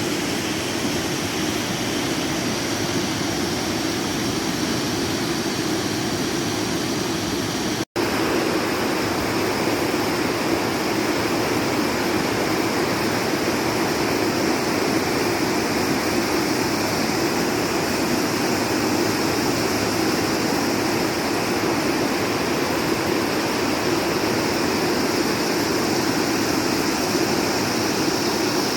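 Steady rushing noise, even throughout, that cuts out for an instant about eight seconds in.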